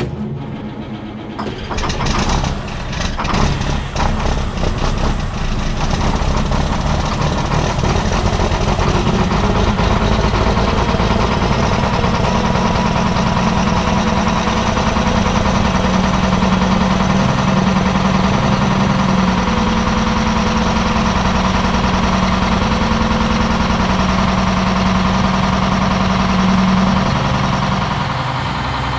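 Diesel semi truck engine cold-starting without a block heater: it cranks, catches about two seconds in and runs unevenly for a few seconds, then is held at a steady fast idle of around 1200 RPM to help the cold motor, easing down a little near the end.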